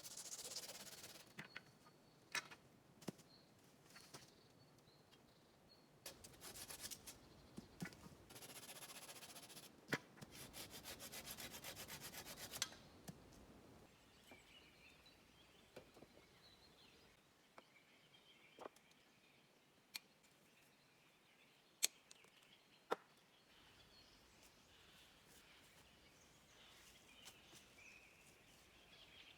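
Scraping and rubbing in bursts of a few seconds, one with a fast, even rasping rhythm, and a few sharp knocks. Faint birdsong is heard in the background later on.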